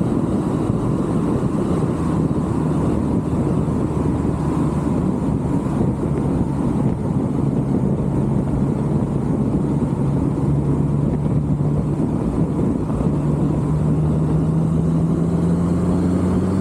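A car driving at speed: steady engine hum over road and wind noise, the engine tone climbing slowly in the last few seconds as it picks up speed.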